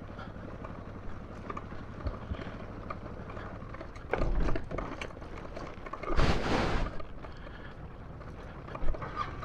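Suzuki DR650 single-cylinder dual-sport motorcycle rolling down a rocky slope: a low engine hum with knocks from the wheels and suspension going over rocks, and two short loud rushes of noise, about four and six seconds in.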